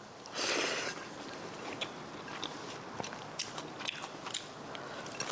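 Someone chewing and biting crunchy food close to the microphone: many small, irregular clicks and crunches, with a short breathy rustle about half a second in.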